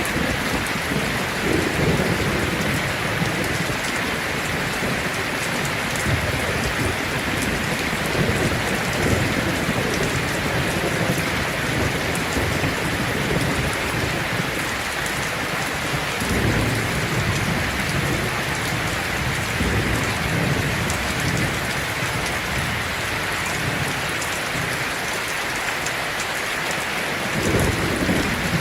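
Heavy rain pattering steadily on a tin roof, with low thunder rumbling beneath it and swelling several times, most strongly near the end.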